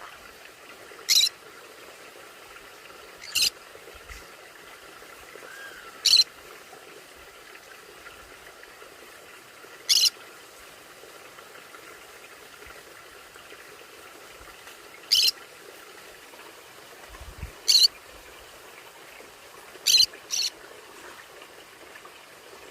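Conure giving short, sharp calls, about eight of them a few seconds apart, the last two in quick succession.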